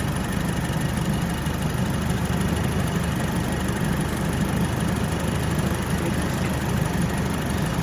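Alfa Romeo Giulietta Quadrifoglio Verde's 1750 TBi turbocharged four-cylinder engine idling steadily, with the air conditioning running while refrigerant gas is charged into the system.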